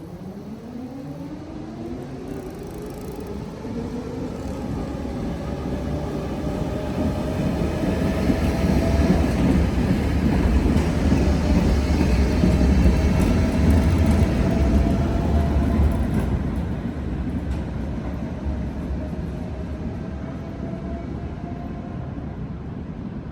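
Tatra ČKD tram accelerating past on its rails: the traction motors whine, rising steadily in pitch and levelling off, over a low rumble of wheels on track. It grows louder to a peak about halfway through, then fades as it moves away.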